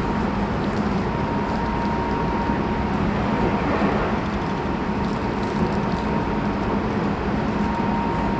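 Interior running sound of a Tobu 20400 series motor car with Toyo GTO-VVVF traction equipment, travelling at speed between stations: a steady rumble of wheels on rail with a steady low hum and a steady high tone.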